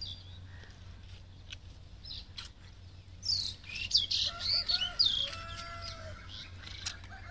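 Birds chirping in a burst of quick, shifting calls from about three to six seconds in, with a few faint clicks before them.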